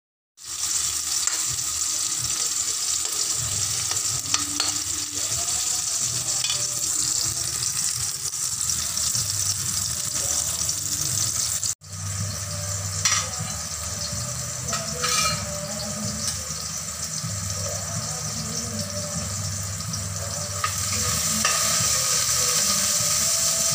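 Oil sizzling steadily in a metal wok as sliced shallots, garlic and chopped vegetables fry, with a few sharp taps and scrapes of a spatula as they are stirred. The sound breaks off for a moment about halfway through, then carries on.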